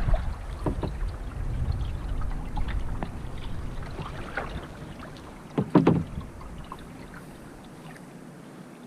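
Water splashing and lapping around a kayak, with scattered small clicks and a louder double knock about six seconds in. Wind rumbles on the microphone for the first half, then dies away.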